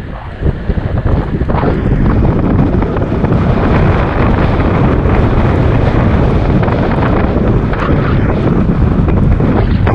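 Loud, steady wind buffeting the microphone from the airflow of riding a bicycle, a dense low rumble with a brief dip just after the start.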